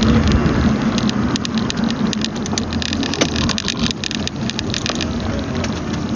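Steady low hum of a car engine running, heard inside the car, with scattered crackling ticks over it.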